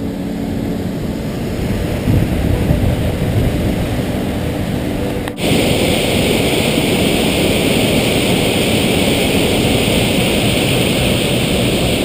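Rushing water of a waterfall, a steady loud roar; about five seconds in it cuts abruptly to a louder, hissier stretch of the same kind of noise.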